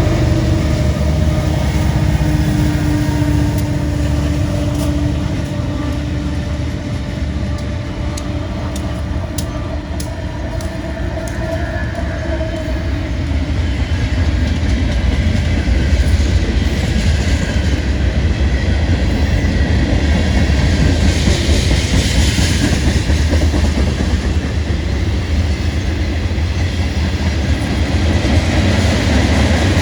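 Long Union Pacific manifest freight train rolling past: a steady rumble with clatter from the wheels on the rails, and scattered sharp clicks about a third of the way in.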